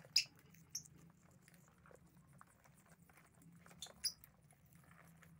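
Lovebirds giving a few short, high chirps: the loudest just after the start, one under a second in, and a pair about four seconds in, over a faint steady hum.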